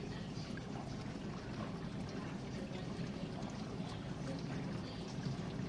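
GE dishwasher at the start of its main wash, with a steady sound of water running and pouring inside the tub and a low hum underneath.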